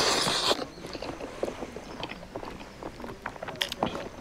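A person chewing food close to the microphone, with scattered soft smacks and clicks of the mouth. A brief, louder rush of noise opens it.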